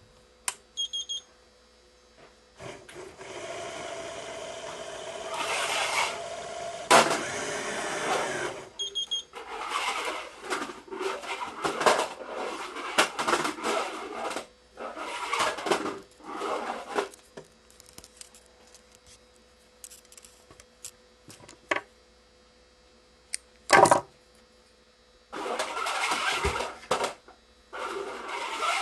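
Badminton string (Yonex Nanogy 99) being pulled out and handled for measuring and cutting: irregular bursts of rubbing and swishing, with one long pull early on, a sharp click a little before the end, and a faint steady hum underneath.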